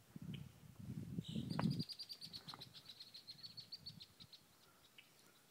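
A songbird's trill: a rapid run of high, evenly repeated notes lasting about three seconds, slowing and fading near the end. Over the first two seconds a louder low rumbling noise runs under it.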